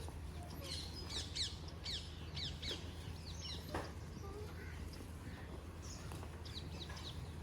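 Small birds chirping: runs of short, quick, falling chirps, thickest in the first three seconds and again around six seconds in, over a steady low hum.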